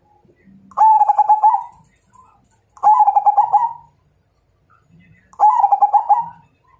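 Zebra dove (perkutut) cooing: three phrases of rapid, rhythmic notes, each about a second long and a couple of seconds apart.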